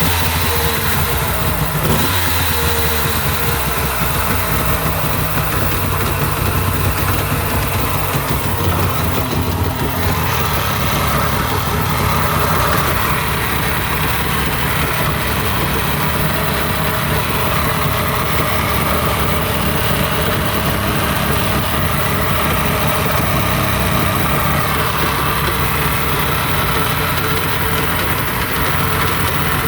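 Yamaha WaveRaider 1100's three-cylinder two-stroke engine idling steadily.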